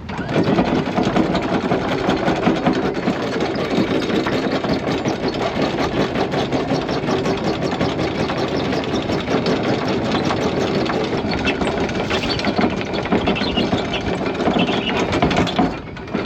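Electric anchor windlass hauling in the anchor chain: the motor runs with a fast, continuous rattle of chain links. It starts abruptly and cuts off shortly before the end.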